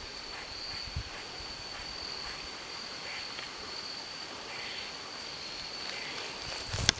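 Steady high-pitched drone of crickets over quiet woodland, and a single sharp crack just before the end.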